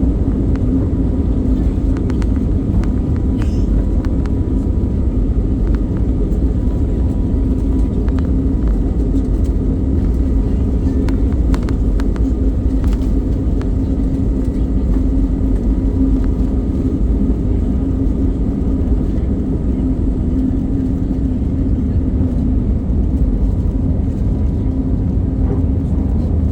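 Passenger jet cabin noise in flight: the steady low rumble of engines and airflow, with a constant hum running through it.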